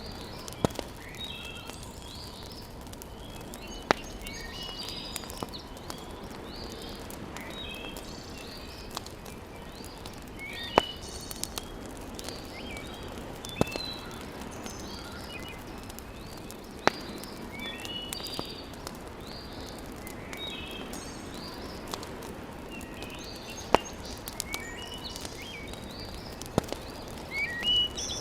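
Wood fire in a fireplace crackling over a steady hiss, with a sharp pop every few seconds. Small birds chirp throughout.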